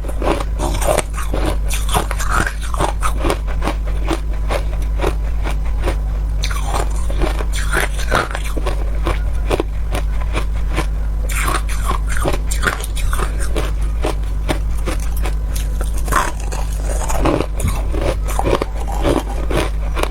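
Hard ice being bitten and chewed close to the mouth: dense, irregular crunching and cracking, several crunches a second, over a steady low hum.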